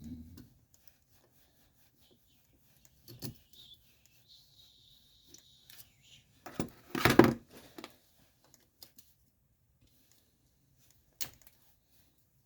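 Small metal engine parts being handled on a workbench: scattered light clicks and clatter, with one louder knock about seven seconds in and a sharp click near the end.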